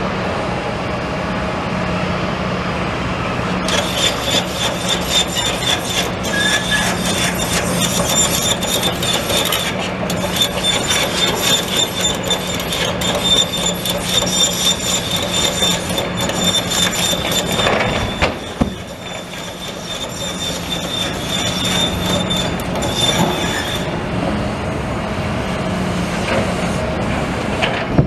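Demolition machinery at work: a steady engine hum, joined from about four seconds in by a high-pitched metallic squeal and rapid clattering that stop a few seconds before the end.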